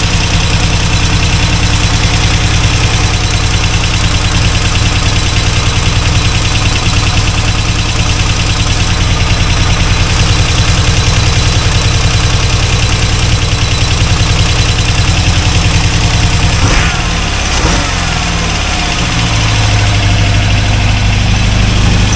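Chevrolet 350 small-block V8 in a C4 Corvette running steadily at a fast idle, then dropping in speed about three-quarters of the way through and settling into a lower idle. It runs without rod knock, but the owner judges the ignition timing way off and the mixture rich.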